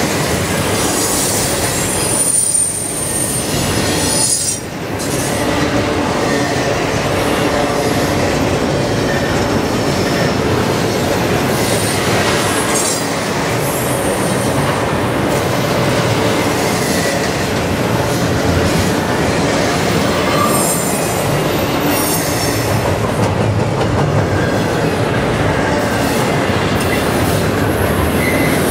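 Double-stack container well cars of a freight train rolling past at close range: a steady rumble and clatter of steel wheels on rail, with short high-pitched wheel squeals now and then.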